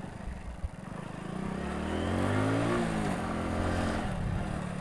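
Road vehicle engine speeding up, its pitch rising for about two seconds, then easing off slightly and running on steadily.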